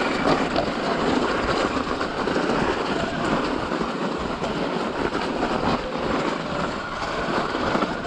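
Mountain bike riding over rough trail: tyres rolling over bumpy ground and the bike's parts rattling, a dense, continuous noise that holds steady throughout.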